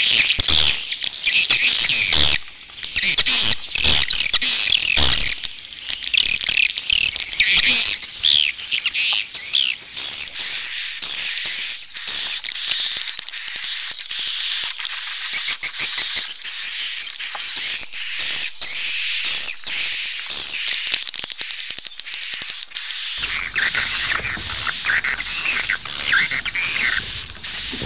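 Swiftlet calls of the 'walet jaguar' type: dense, rapid chirping and twittering with clicks, joined by a thin steady high tone from about ten seconds in.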